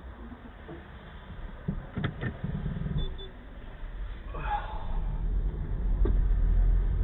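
Steady low rumble of a car driving, heard inside the cabin through a dashcam microphone, with a few sharp clicks and a brief wavering tone near the middle.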